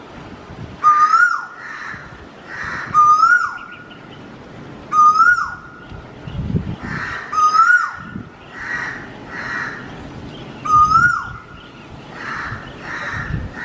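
Birds calling. A loud whistled call rises briefly and then drops away, repeating about every two seconds, with harsher, hoarse calls in between.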